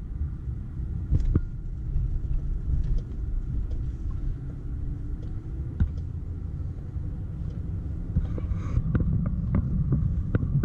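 Steady low rumble of engine and road noise inside a moving car's cabin, with a few light knocks and clicks.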